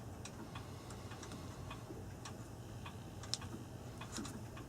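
Light clicks and taps at irregular spacing, several a second, from handling the clock's small parts and wiring, over a low steady hum.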